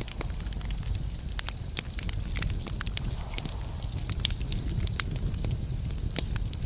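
Wood fire in a fireplace burning steadily: a low rumble of flames with frequent sharp, irregular crackles and pops from the burning logs.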